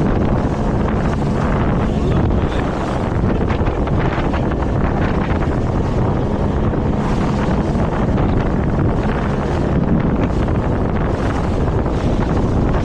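Motorboat under way: wind buffeting the microphone over water rushing past the hull and a low, steady engine hum.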